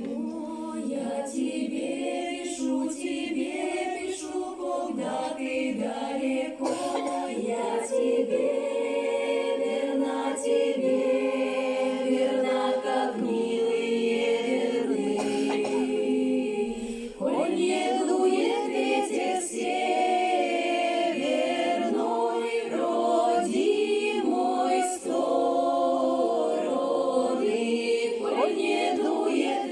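A choir singing in several voices, with a brief drop in level about seventeen seconds in.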